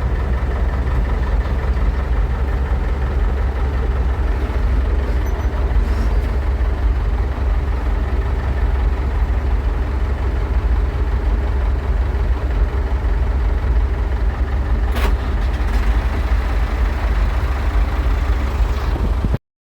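David Brown 1490 tractor's diesel engine running steadily at an even speed, with a single sharp click about fifteen seconds in. The sound cuts off suddenly near the end.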